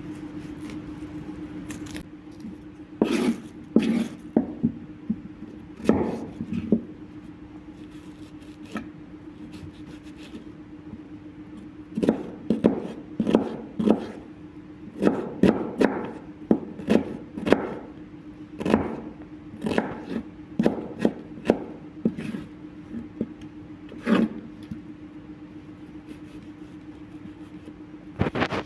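Irregular knocks and scrapes of hand food preparation, some in quick clusters and others spaced several seconds apart, over a steady low hum.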